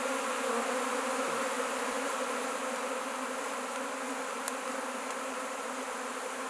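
A large swarm of honey bees buzzing, a dense, steady drone of many wings close by as the swarm is disturbed and moved. A faint click about four and a half seconds in.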